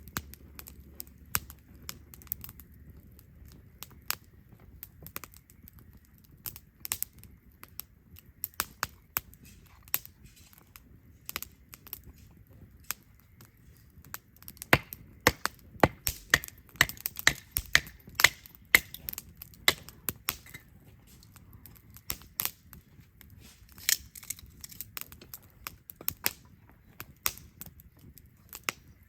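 Wood campfire crackling: irregular sharp pops and snaps, becoming more frequent about halfway through, over a faint low rumble.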